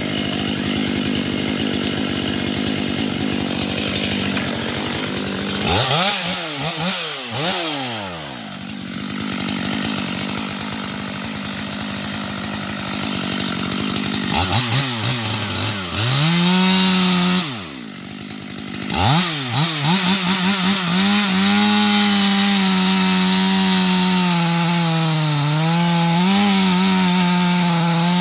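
Two-stroke chainsaw cutting wood at high revs, its engine pitch sagging as the chain bites and climbing back. Several times in the first part the revs drop sharply and rise again, and once they fall off briefly before picking back up.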